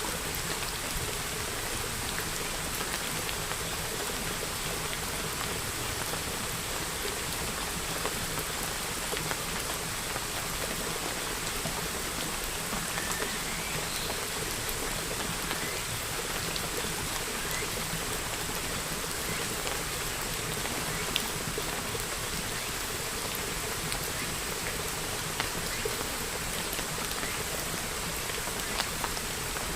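Steady rain: a constant even hiss of falling rain, with individual drops ticking through it and a few louder drops standing out near the end.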